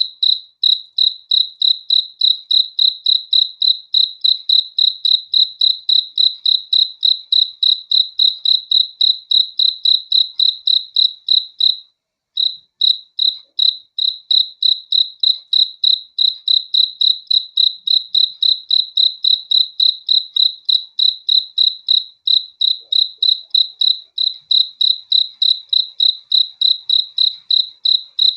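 A cricket chirping close by, a loud, high-pitched chirp repeated evenly about two to three times a second, with one short pause about twelve seconds in.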